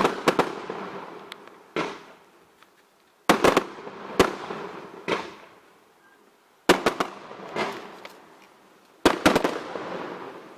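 Fireworks going off: loud sharp bangs every second or two, some single and some in quick clusters of two to four. Each bang is followed by a fading echo.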